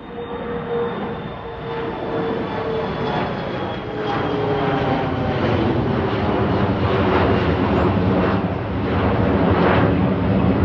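Engines of a departing airliner, a steady rushing roar that builds in loudness as the aircraft comes closer, with a whine that slowly drops in pitch.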